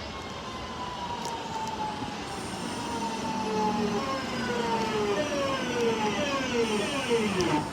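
Electric train's traction motors whining as it brakes to a stop, several tones together falling in pitch, faster and faster toward the end, while growing louder.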